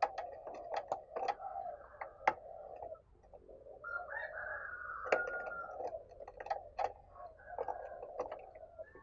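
Spotted dove cooing in repeated phrases (the urgent 'gáy thúc' call), with many sharp clicks scattered through it.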